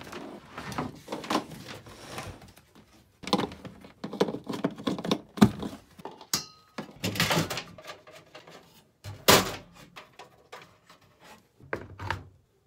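Irregular knocks, thunks and rattles of something being handled and set down, with a brief metallic ring about six seconds in; no steady motor hum.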